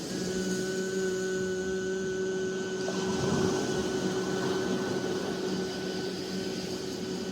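A long, steady voiced 'zzz' held on one pitch on a single out-breath: the qigong healing sound for the lungs.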